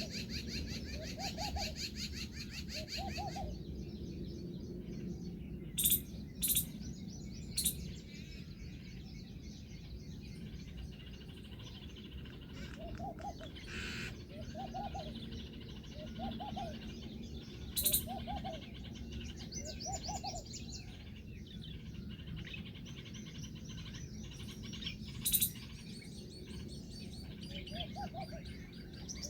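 Birds calling: short low notes that rise and fall, repeated about once a second in loose series, with rapid high chirping in the first few seconds and a few sharp clicks.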